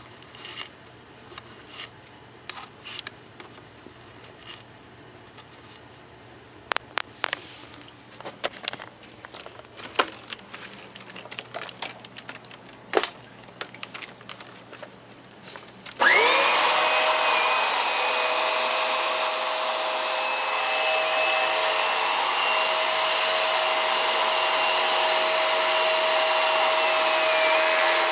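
Scattered light clicks and rustling, then a little over halfway through a Hoover PowerDrive Pet bagless upright vacuum switches on: its motor whines up to speed within about a second and then runs steadily and loudly.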